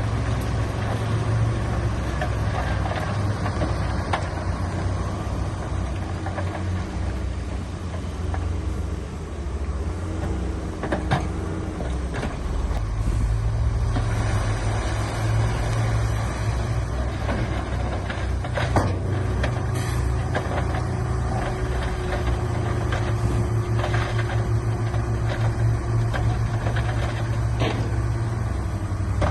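Heavy diesel earthmoving machinery running steadily under work, the engine growing louder about halfway through, with a few sharp clanks.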